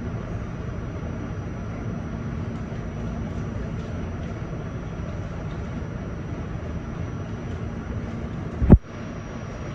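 Steady rumble of an R68 subway car riding along the track, with a thin steady high tone over it. Near the end a short, loud sound falling steeply in pitch breaks in and cuts off abruptly.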